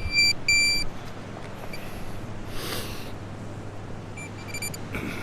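Handheld metal-detecting pinpointer beeping: short high-pitched electronic beeps at the start, then a fainter run of quick beeps near the end, signalling a metal target in the sand. A brief rustle comes in the middle.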